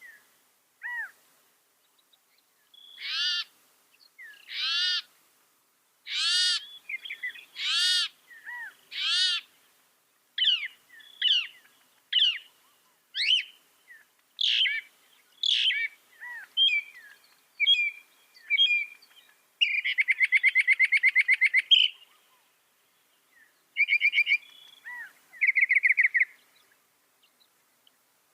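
Mockingbird singing: a string of varied phrases, each note type repeated a few times before switching. Slow arching notes come about every second and a half, then quicker chirps and whistles, and a fast rattling trill about two-thirds of the way through.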